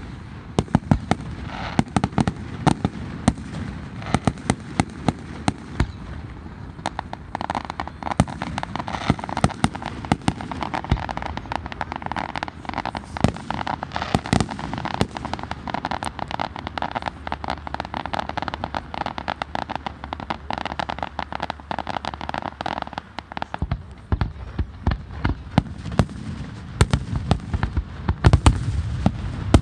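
Fireworks display: a rapid, continuous string of bangs and crackling pops, with the loudest bangs near the end.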